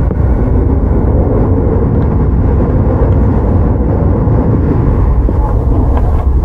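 Tokyu 9000 series electric commuter train running at speed, heard from inside the car: a steady low rumble of wheels on the rails and the car body.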